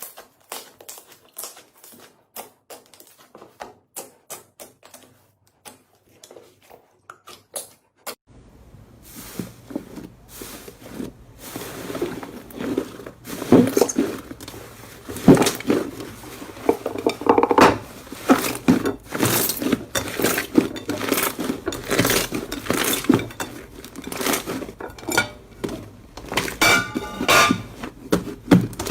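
Slime being squeezed and poked by hand: a run of small wet clicks and pops, sparse and quiet for the first several seconds, then denser and louder from about eight seconds in.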